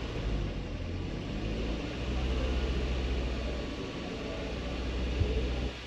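Car engine running with a steady low rumble; a sharp click a little after five seconds, and the rumble drops away just before the end.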